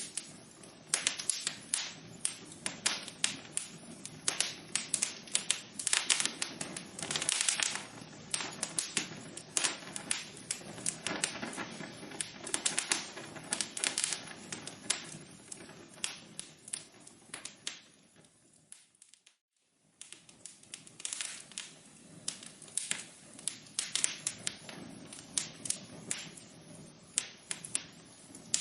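Wood fire crackling in a fireplace: dense, irregular pops and snaps over a low hiss. A little past halfway it fades briefly to near silence, then the crackling picks up again.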